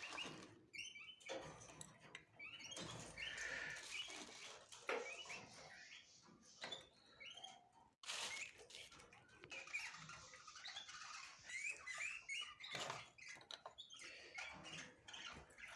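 Small cage birds chirping in short, high calls, with scattered clicks and scratches mixed in.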